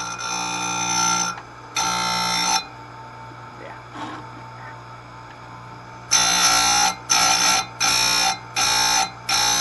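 Electric chainsaw-chain grinder's motor running steadily while its CBN disc grinds chain teeth in short, high-pitched passes: two passes, a pause of a few seconds, then five quick passes near the end. Each tooth is only lightly skimmed.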